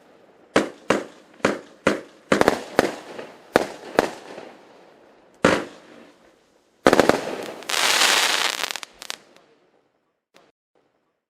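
Fireworks going off: a run of sharp bangs about two a second, a lone bang, then a dense volley of bangs and crackling about seven seconds in. One last bang follows, then a few faint distant pops.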